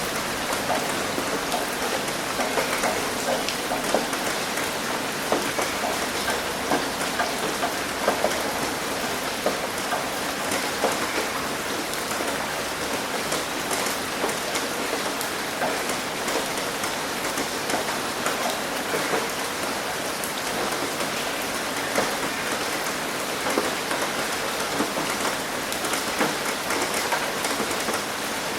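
Steady rain hitting a roof: a constant hiss with many individual drops tapping at irregular moments.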